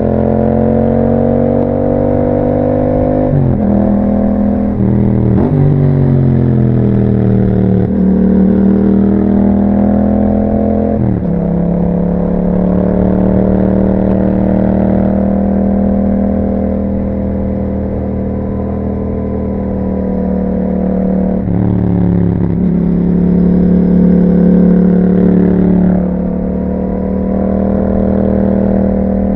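Yamaha MT-07's parallel-twin engine running through an Akrapovic aftermarket exhaust while riding. The engine pitch rises and falls, with several abrupt changes in pitch where the gear changes.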